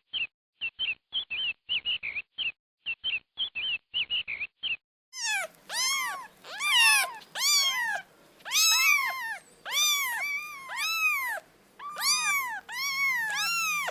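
Small bird chirping in quick short notes, then, about five seconds in, a cat meowing over and over in high, rise-and-fall calls.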